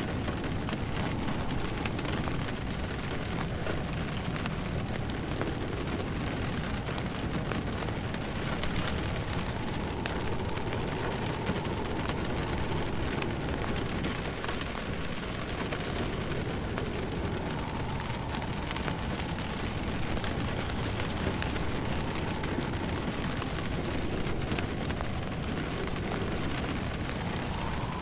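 Steady rain on a surface mixed with a crackling wood fire. A faint wind tone rises and fades now and then.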